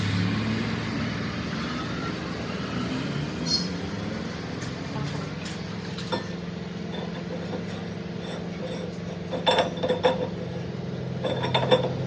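A machine runs with a steady low hum while metal parts clink and ring a few times, single strikes at first and then short clusters of clinks near the end.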